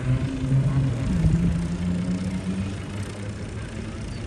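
Tractor engine running as it goes past, its pitch dipping and the sound slowly fading away.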